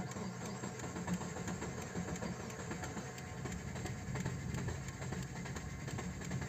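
Subaru flat-four boxer engine idling just after starting, running on 10W-40 oil in place of the specified 5W-30, with a steady, rapidly pulsing running sound.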